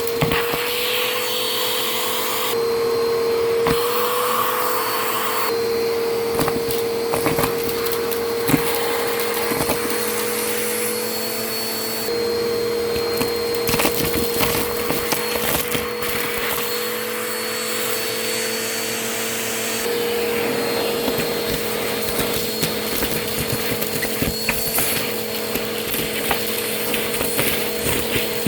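Vacuum cleaner running with a steady motor whine, crackling and crunching as it sucks up debris.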